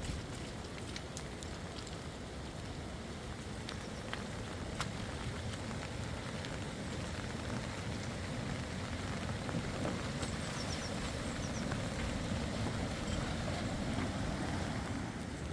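Steady rain falling, a continuous hiss with scattered sharper drop hits.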